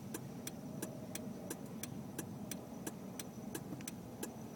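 Steady low road rumble inside a moving car's cabin, with a sharp ticking about three times a second.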